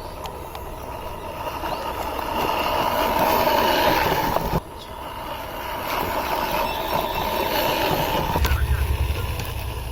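Homemade RC tractor's geared DC motor running with a steady whine. The sound drops off abruptly about halfway through and picks up again. A low rumble joins near the end.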